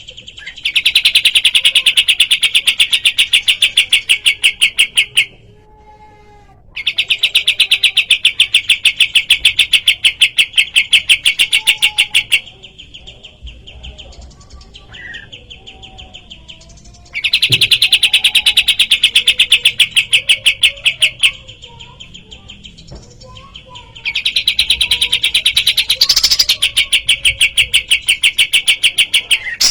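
Kapas tembak songbird singing: four loud, rapid, evenly pulsed trills of about four to five seconds each, with softer scattered chirps in between.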